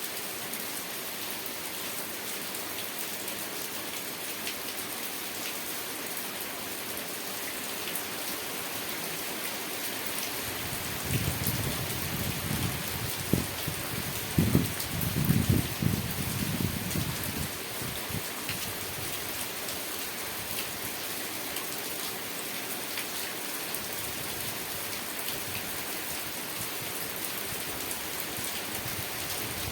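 Steady rain falling: an even hiss with scattered drop ticks. For several seconds near the middle a louder, uneven low rumble rises over it.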